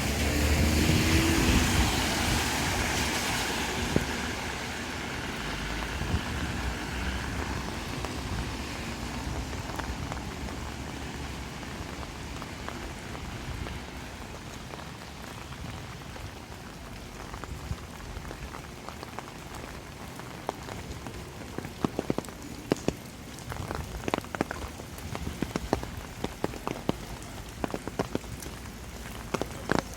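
Steady rain falling, with a vehicle's low hum fading away over the first few seconds. From about two-thirds of the way through, sharp irregular taps of heavy drops stand out over the hiss.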